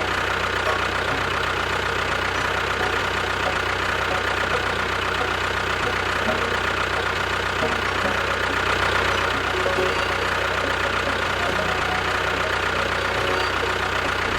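An engine running steadily at idle, with a low hum and a faint steady whine over an even mechanical noise.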